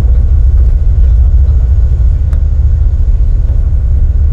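Loud, steady low rumble aboard a river passenger ferry, the boat's engines running, with a few faint steady whines above it.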